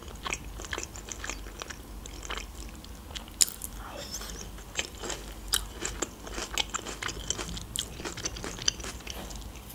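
A person chewing food close to the microphone: a steady run of small, crisp, wet mouth clicks and smacks, with one sharper click about three and a half seconds in.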